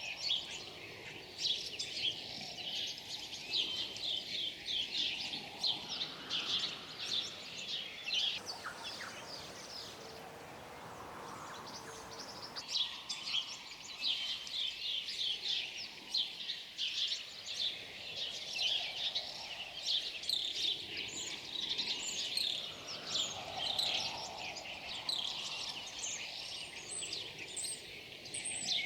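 A chorus of many small birds chirping and twittering rapidly together, easing off for a few seconds about a third of the way in before picking up again.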